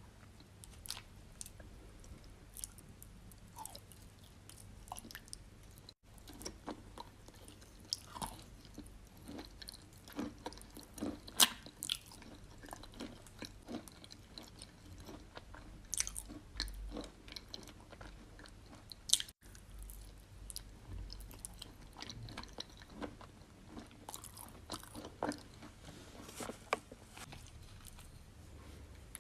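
Wet chalk with clay paste being bitten and chewed: irregular soft crunches and moist clicks, with a few sharper crunching bites standing out, the loudest about eleven seconds in and another near nineteen seconds.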